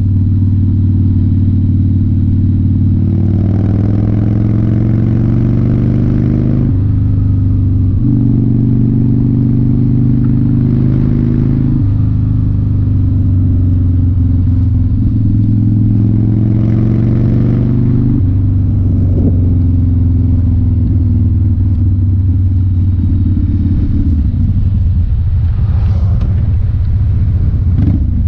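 1993 Harley-Davidson FXR's 1340 cc Evolution V-twin engine pulling the bike along under way. Its pitch climbs steadily, then drops abruptly at gear changes about 6, 12 and 18 seconds in.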